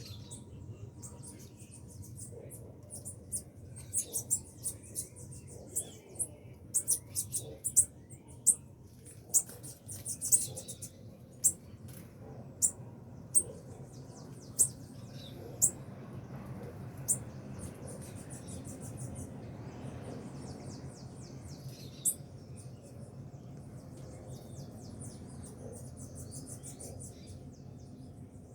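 Small birds chirping and trilling: fast high trills come and go, and a run of sharp, loud chirps repeats about once a second between roughly four and sixteen seconds in. A low steady rumble lies underneath.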